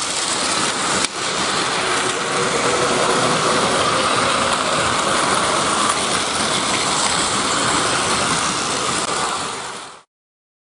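A train running on the rails: a steady rushing rail noise with a brief dip about a second in, fading out and stopping just before the end.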